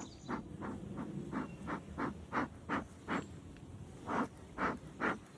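Bellows smoker being squeezed, puffing air in short whooshes about three times a second, with a brief pause before three stronger puffs near the end.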